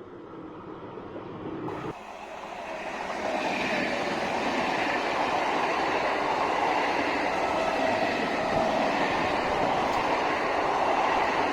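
Local passenger train running past at close range. It grows louder over the first few seconds, then runs steadily with a continuous whine over the rumble of the wheels.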